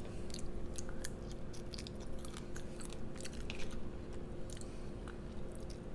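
Close-miked chewing and biting of crab, with many small wet clicks and crunches, over a steady low hum.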